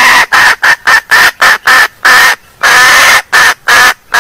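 Female junglefowl (hen) calling: a long note, then a quick run of short cackling notes, about four a second, broken by a few longer notes. It is a loud, close lure-call recording.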